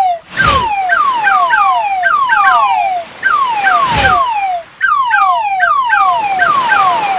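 Electronic crab sound effect for a cat game: a rapid run of short falling "pew" chirps, about three a second, broken by a short burst of noise twice.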